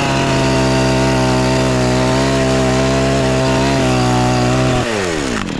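Two-stroke chainsaw held at full throttle with a steady engine note for about five seconds, then the revs drop away near the end as the throttle is released.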